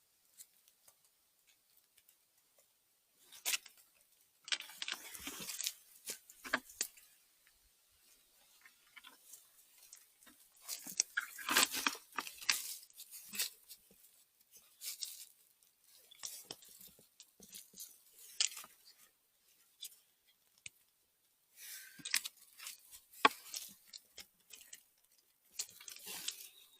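Irregular bouts of rustling and crunching in dry forest litter, with short crackles and quiet gaps between.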